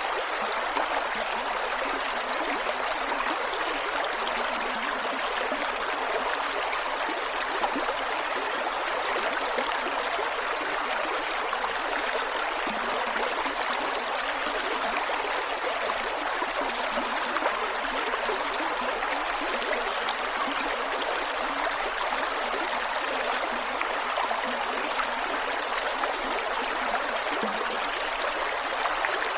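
Creek water flowing over rocks, a steady gurgling and trickling rush with no change.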